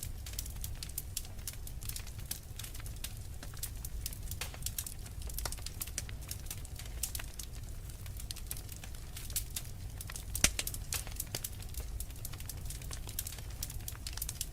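Fireplace fire crackling, with frequent small snaps and pops over a low steady rumble, and one louder pop about ten seconds in.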